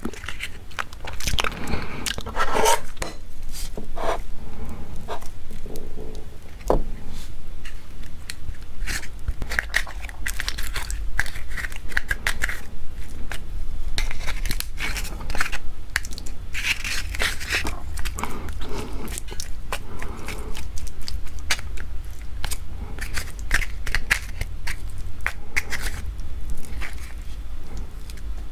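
Close-miked eating of raw marinated crab: biting and chewing, with crab shell crunching and cracking in many irregular short clicks and crackles, over a steady low hum.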